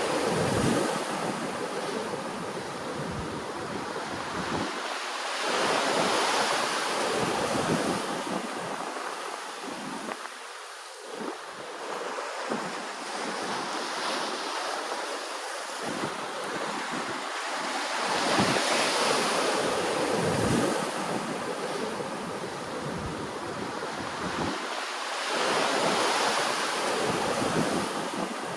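Ocean waves washing ashore, a steady rushing wash that swells and ebbs about every six to seven seconds.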